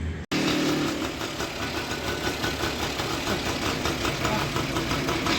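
Small 100cc petrol engine idling steadily with an even, fast beat. The sound cuts in abruptly a moment in.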